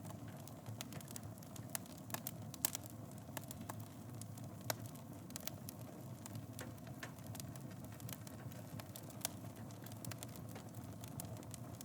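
Wood fire burning in a fireplace, a steady low rush with frequent crackles and pops; two louder pops stand out, about two and a half and four and a half seconds in.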